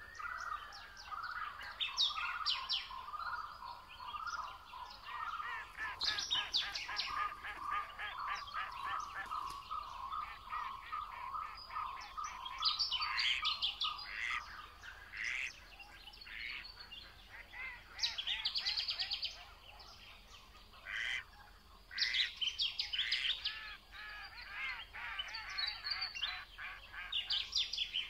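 Several birds singing and calling at once, with fast chattering trills and chirps throughout. A run of quick, evenly repeated notes carries through the first half.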